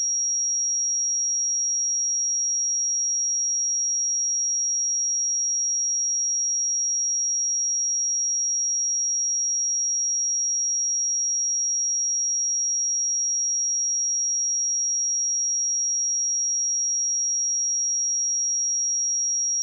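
A pure 5655 Hz sine-wave test tone, one steady high-pitched tone held at a constant level.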